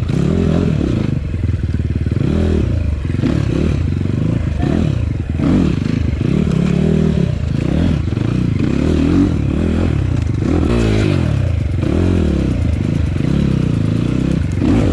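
Enduro motorcycle engine being ridden hard off-road, its pitch rising and falling again and again as the throttle is worked on and off.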